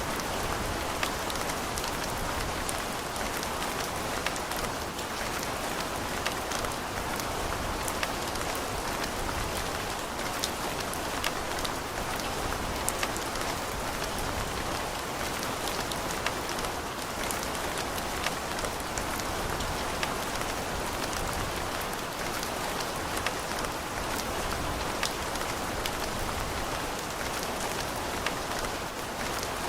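Steady rain falling, an even hiss with many sharp drop taps scattered through it.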